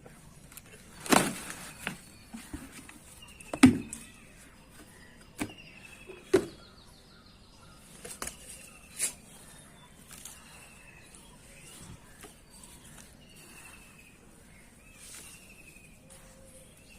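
A bird repeating a short falling call every two seconds or so over a faint high hiss. Several sharp knocks or snaps come in the first half, the loudest about a second in and just under four seconds in.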